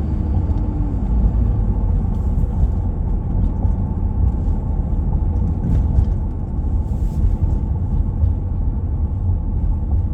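Road noise heard from inside a moving car: a steady low rumble of tyres and engine.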